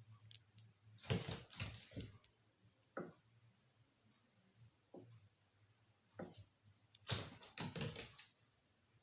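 Irregular scuffles, taps and knocks from an exotic kitten and a griffon dog playing on the floor. The noise comes in two busier flurries, about a second in and again around seven seconds in.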